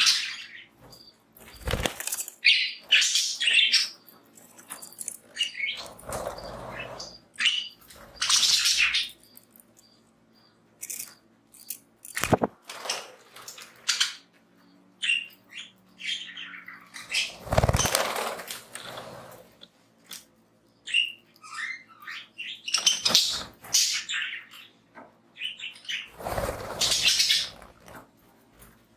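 Pet budgies chirping in short high calls, with several bursts of wing-flapping and rustling about a second long each, the loudest near 2, 9, 18 and 27 seconds in.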